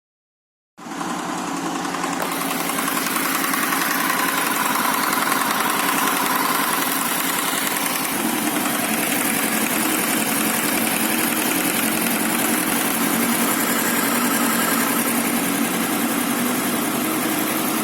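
Honda VFR800 VTEC's V4 engine running steadily with a knock from the cylinder heads, the sign of stretched timing chains. The sound cuts in abruptly about a second in.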